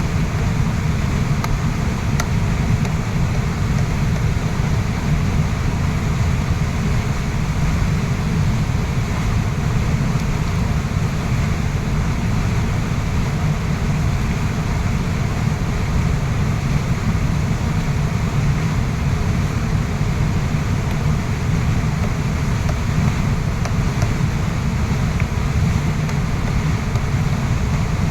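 Waterfall: falling water rushing steadily, a dense, even noise heaviest in the low rumble and unchanging throughout.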